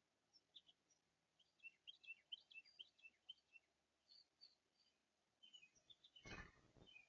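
Faint chirping of small songbirds, many short high notes in quick runs. About six seconds in there is a brief rustling thump.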